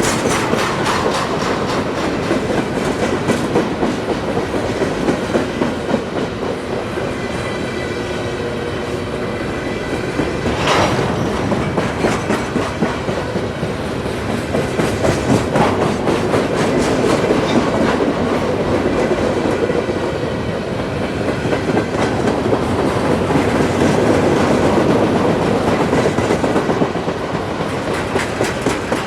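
Train cars rolling past, steel wheels clicking steadily over rail joints with a continuous rumble.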